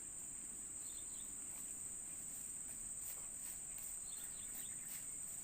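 Steady, high-pitched drone of insects in the surrounding vegetation, with a couple of faint short chirps about a second in and again about four seconds in.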